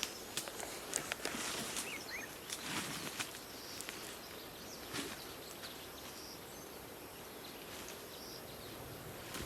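Forest ambience: a steady background hiss with scattered light rustles and clicks, and a faint high call from a bird or insect repeating about every two seconds in the second half.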